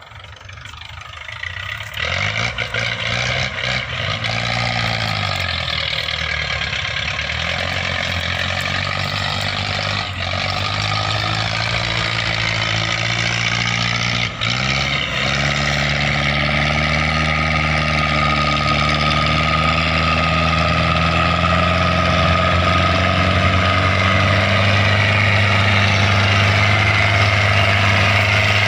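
Belarus tractor's diesel engine catching about two seconds in, its speed swinging up and down for a few seconds, then running steadily.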